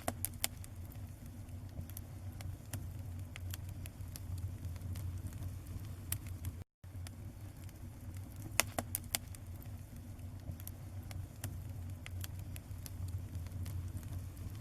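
Bonfire crackling, with scattered sharp pops over a steady low rumble. The sound cuts out for a moment near the middle.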